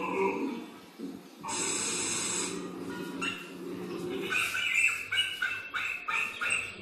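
A dog barking in a rapid, steady series of short, high barks, about three a second, starting about four seconds in, after a brief burst of rustling noise.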